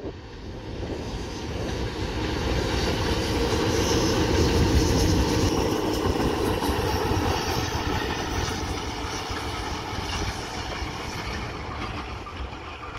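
A train passing close by: a steady rumble of wheels on rail that swells to its loudest about four to five seconds in, then slowly fades.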